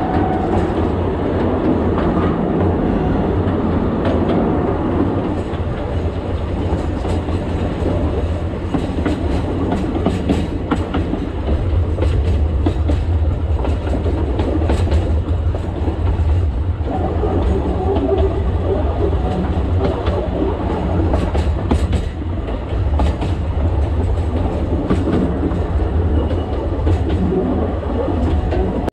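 Alishan Forest Railway narrow-gauge train running, heard from the cab: a steady low rumble with wheels clicking and knocking over the track.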